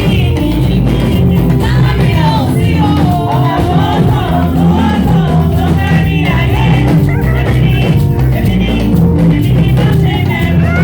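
Praise music at full level: a voice singing a wandering melody over a band with a stepping bass line and a steady drum beat.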